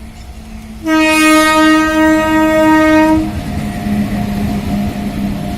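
Indian train's horn sounding one long, loud blast about a second in, lasting a little over two seconds, then the rumble and clatter of the train running on the track.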